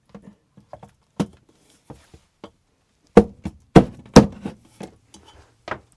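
A series of sharp metallic knocks and clunks as the bunk ladder with its new aluminium hooks is handled: a few light taps, then three loud clunks about three to four seconds in and a few lighter ones after.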